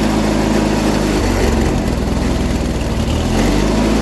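John Deere 317 garden tractor engine running under load while driving its PTO tiller through the garden soil. The engine note changes about a second in.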